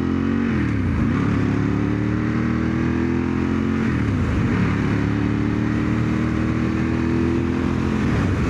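1997 Ducati 916's V-twin engine pulling under light throttle, kept to moderate revs for running in. The revs climb slowly, drop at a gear change about half a second in, again about four seconds in and near the end, then build again.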